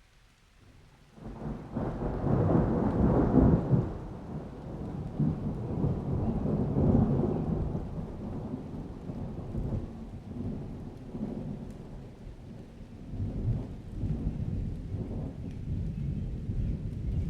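Thunder rumbling over rain: a deep roll starts about a second in, is loudest over the next few seconds, then keeps rolling and swells again near the end.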